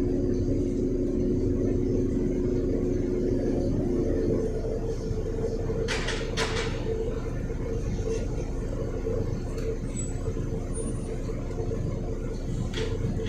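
Volvo B7RLE bus's six-cylinder diesel engine running steadily, its note changing about four and a half seconds in, with two short hisses of air about six seconds in.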